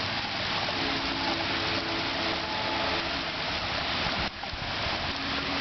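Heavy rain falling steadily, a constant rushing hiss during a thunderstorm.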